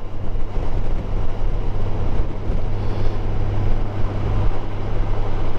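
Motorcycle engine running steadily at cruising speed, with wind and road noise, heard from a helmet-mounted camera.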